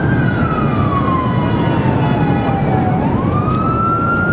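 An emergency-vehicle siren wailing slowly, one long falling sweep and then rising again near the end, over the continuous rumbling roar of steam venting from a ruptured underground steam pipe.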